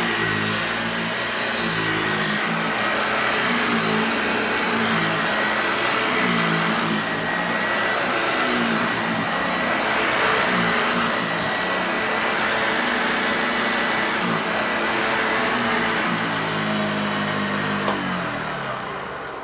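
Hoover Lightweight Model 1340 upright vacuum cleaner running, with a steady high motor whine over the rush of air. Near the end it clicks off and winds down.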